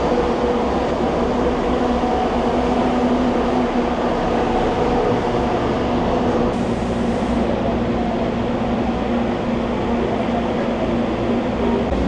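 PeruRail passenger train heard from inside the carriage: a steady rumble with an even, low hum.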